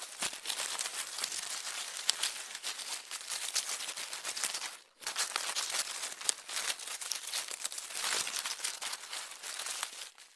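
Dense, irregular crackling and rustling, with a brief break about five seconds in.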